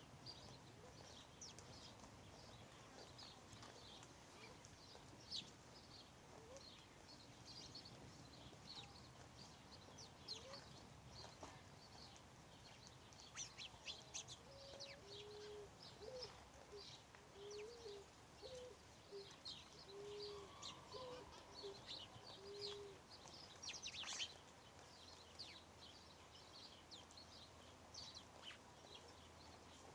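Faint chorus of small birds chirping, with many short high calls throughout. About halfway through comes a run of about eight short, low hooting notes.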